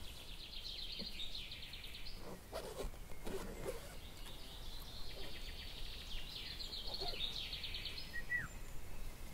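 A songbird singing: two long, fast trilling phrases a few seconds apart, the second rising as it goes, then a short falling whistle near the end.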